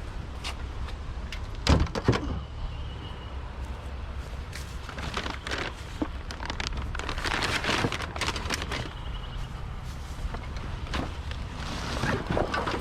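Junk being handled and shifted while rummaging through a kerbside rubbish pile: irregular knocks, clatters and rustling, with one loud knock just under two seconds in, over a steady low rumble.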